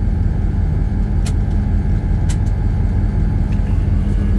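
Southern Railway diesel locomotive's engine running with a steady low drone, heard from inside the cab, with two faint clicks.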